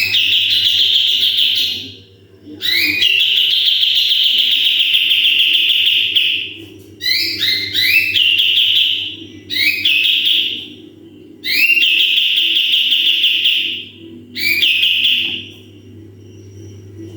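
Kapas tembak songbird singing its 'tembakan' song. It sings six phrases, each a couple of short rising notes leading into a long, rapid, high trill that lasts one to three seconds. A steady low hum runs underneath.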